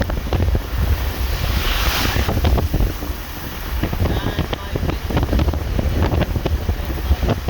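Car driving through a windy snowstorm on slushy roads: a steady low rumble of road and wind noise with scattered knocks, and a hiss that swells and fades about two seconds in.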